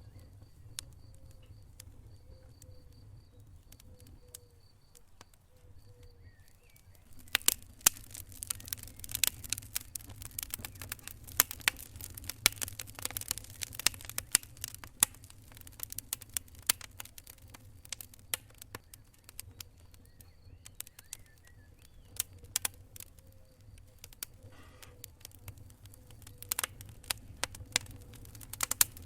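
Wood fire in a fireplace crackling: sharp pops and snaps over a low steady rumble of the flames. The pops come thick and loud from about seven seconds in until about halfway, then thin out.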